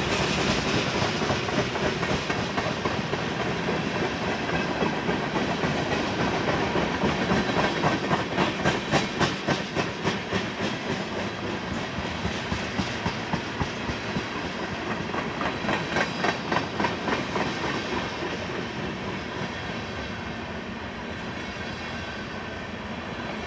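Freight cars of a Union Pacific manifest train rolling past, steel wheels clicking over rail joints in quick bunches between a steady rolling rumble. The clicking comes in two runs, around a third of the way in and again past the middle, and the sound eases off slightly near the end.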